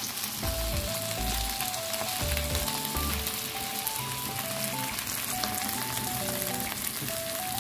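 Fresh oysters bound with egg and starch frying in hot oil in a pan: a steady crackling sizzle. A simple background melody plays under it.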